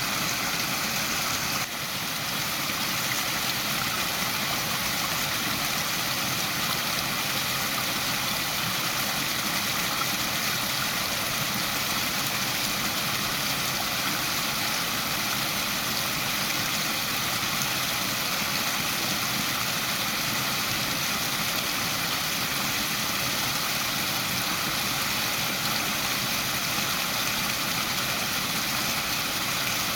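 Waterfall: water falling and rushing in a steady, even roar of noise, with a brief slight dip in level about two seconds in.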